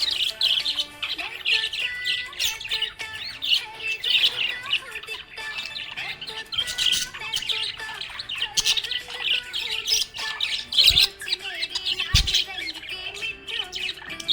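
Budgerigar chirping and warbling without a break, a fast run of high chirps and squawks. Two short low thumps come near the end.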